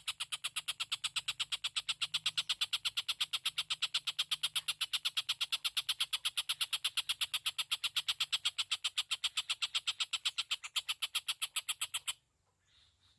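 A tengkek buto calling: a fast, even trill of sharp pulses at about seven a second, held without a break and cutting off abruptly near the end.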